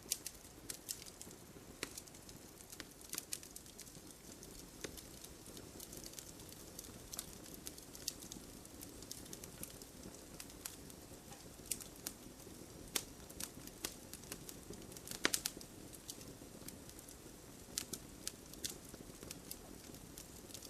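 Wood campfire burning, crackling with irregular sharp pops and snaps over a soft steady hiss. A brief cluster of louder pops comes about fifteen seconds in.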